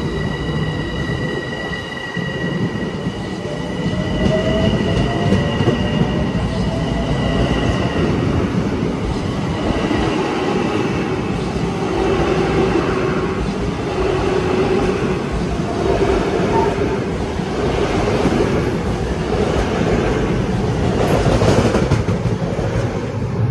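Electric passenger train running past, a steady high whine from its motors for the first several seconds, then wheels clattering over rail joints in the second half.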